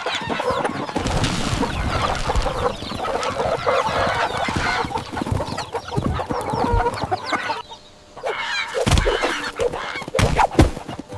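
A flock of chickens clucking in a dense, busy chatter that breaks off briefly about eight seconds in, with a few sharp knocks near the end.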